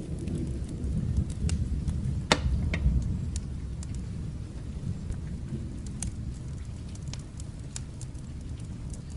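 Low rumble of distant thunder dying away, over rain and a crackling fire's scattered sharp pops, the loudest pop about two seconds in.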